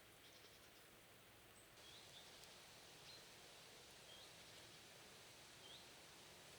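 Faint woodland ambience: a small bird giving short, high, rising chirps every second or so over a quiet steady hiss.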